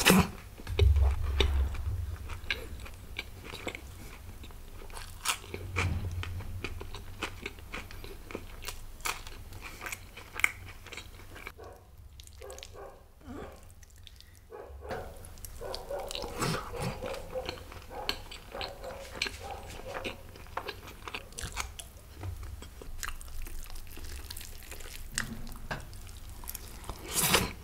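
A man chewing and biting food close to the microphone: wet mouth sounds made of many short clicks. It goes quieter for a few seconds about halfway through.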